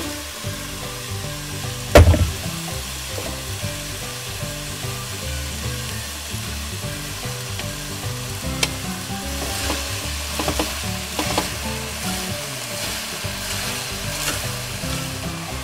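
Sliced onions sizzling as they start to fry in melted cane sugar in a hot pot. There is one loud knock about two seconds in and a few lighter clatters later, as the onions are stirred with a wooden spoon.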